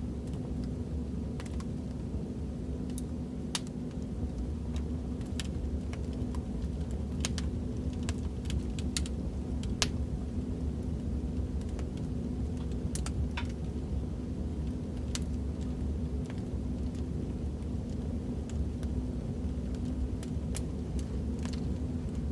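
Fireplace crackling: a steady low rumble of burning wood with sharp pops and snaps at irregular intervals.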